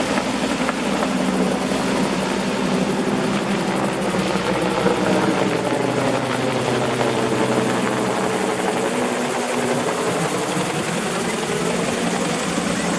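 Bell 222 twin-engine helicopter with Rolls-Royce 250-C30G turboshafts flying past, a steady rush of rotor and turbine with tones that sweep down and back up around the middle as it passes.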